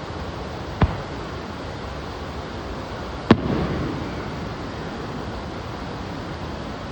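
Two fireworks shells bursting with sharp bangs, about two and a half seconds apart; the second is louder and followed by a short rumbling echo. A steady background hiss runs underneath.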